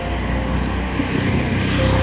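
Motor vehicle noise: a low engine rumble with road hiss, growing louder over the two seconds.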